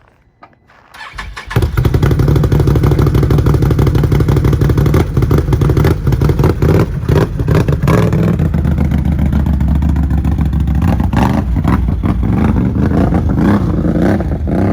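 Can-Am Renegade 1000 XMR's Rotax V-twin, fitted with an SLG Quiet Series exhaust, cranks briefly and starts about a second in, then runs at a fast idle. About eight seconds in the engine note drops to a lower, pulsing idle.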